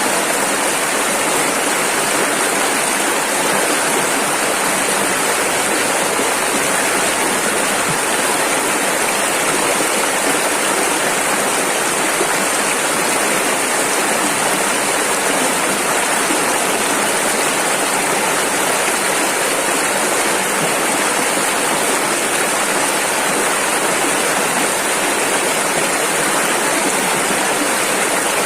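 Rushing river water: a steady, loud rush of fast-flowing rapids.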